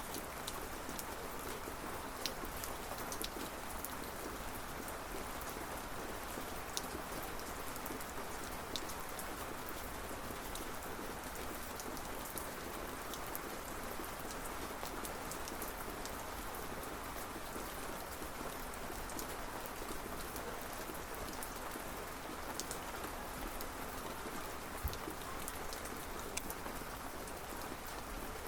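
Steady rain falling, an even hiss with scattered sharp drips and patters on a surface.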